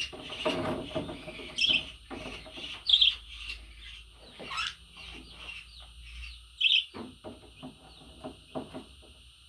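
Pet budgerigar chirping and warbling, with four loud sharp chirps over a steady chatter and short clicks.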